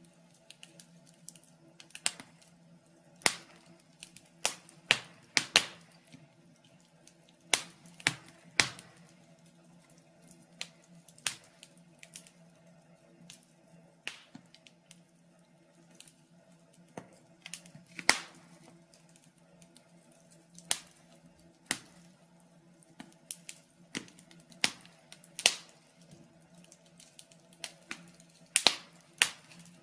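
Wood fire in a fireplace crackling, with irregular sharp pops and snaps at uneven intervals over a faint steady low hum.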